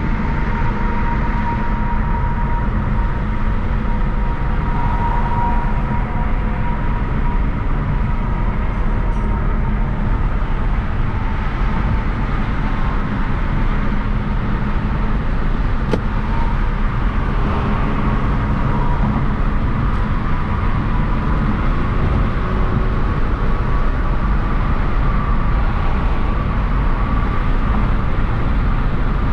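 Steady engine and road noise of a Hyundai Genesis Coupe 3.8 V6 cruising, heard from inside the cabin, with a faint whine drifting slightly in pitch and one light click about halfway through.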